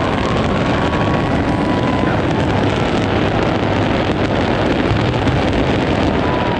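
Dense fireworks barrage: continuous crackling made of many quick cracks over a steady low rumble, with no single bang standing out.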